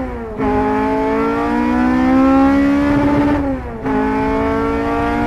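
Honda Civic Type R EP3's K20 2.0-litre four-cylinder engine heard from inside the cabin, pulling at high revs with a slowly rising pitch. The pull is broken by two quick upshifts, one just after the start and one about three and a half seconds in.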